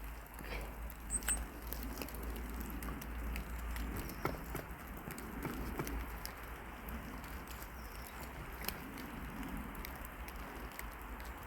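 Outdoor ambience with wind rumbling on the microphone, and scattered light ticks and patter.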